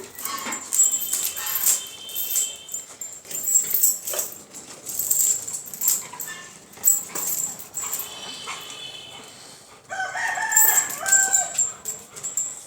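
A rooster crowing several times, long held calls that step in pitch, amid scattered short clicks and knocks.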